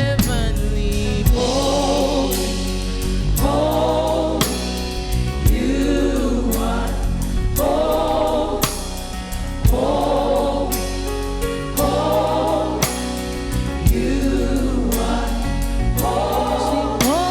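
Gospel choir singing worship music with instrumental backing, in phrases of about two seconds over a steady beat.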